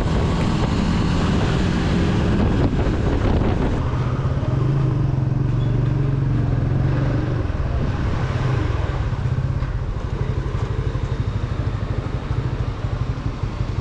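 Motorcycle engine running while riding, with wind noise on the microphone. The engine note holds steady, then drops about seven to eight seconds in and runs lower and more unevenly toward the end.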